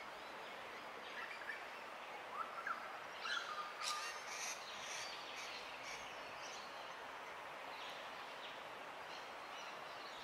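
Rainbow lorikeets giving short, sharp screeching calls in a cluster in the first half, over a steady hiss of bush ambience.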